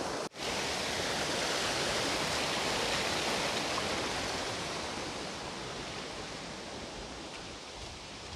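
Steady rush of falling water from a waterfall or stream, with a momentary break just after the start and easing slightly in the second half.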